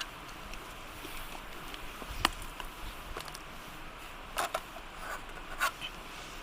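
Campfire burning with a steady hiss and scattered crackles: one sharp pop about two seconds in and a few more pops near the end.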